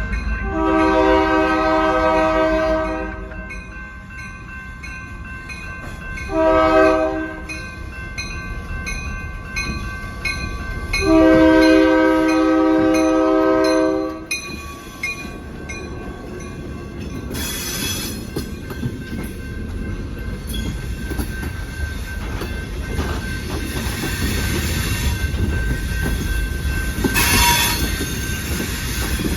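Locomotive horn sounding a long blast, a short one and another long one, a chord of several notes. The train then rolls past with a rising rumble of wheels on rail and two brief wheel squeals.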